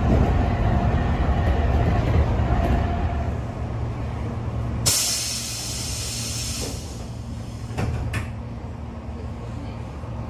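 Inside a Tobu 8000-series electric train: a steady low running rumble for about the first five seconds. Then, after a sudden change, a hiss of released air fades away over about two seconds over a quieter rumble, with two light clicks near the end.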